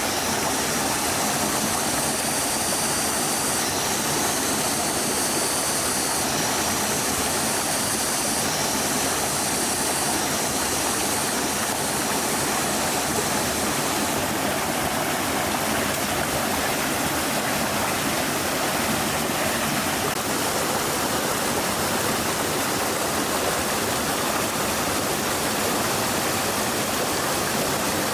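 Stream water flowing steadily, an even rushing sound that does not change.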